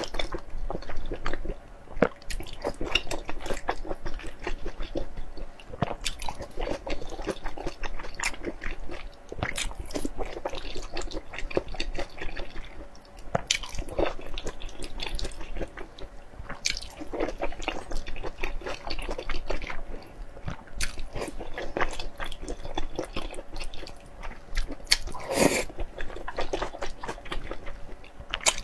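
Close-miked wet chewing and squelching as a person eats sauce-soaked rolls, with many small irregular clicks and smacks.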